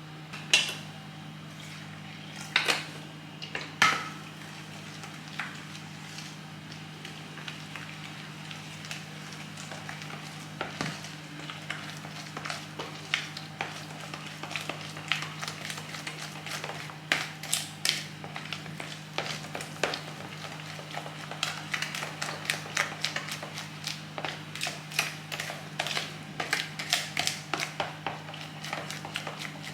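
Kitchen utensils clinking and tapping against dishes, a few loud knocks at first, then a quicker run of regular taps later on, over a steady low hum.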